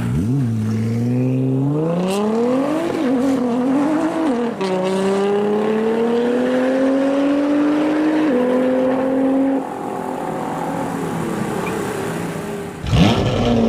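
Straight-piped Lamborghini engine accelerating hard: the exhaust note climbs in pitch, drops at two upshifts and fades away. A loud burst of engine sound comes near the end.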